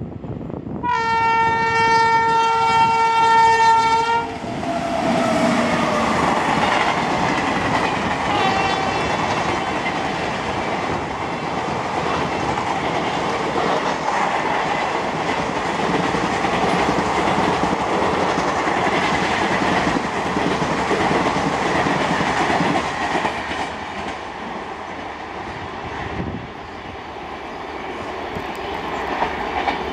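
An Indian Railways express train passing through a station at high speed. The locomotive horn sounds a long steady blast about a second in, sliding down in pitch as the engine passes, then a short second blast a few seconds later. The long rushing rattle and clickety-clack of the coaches going by follows, easing off in the last few seconds.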